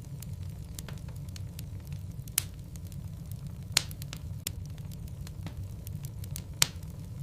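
Wood logs burning in a fireplace: a steady low rumble of flames with scattered crackles and pops, three of them louder snaps.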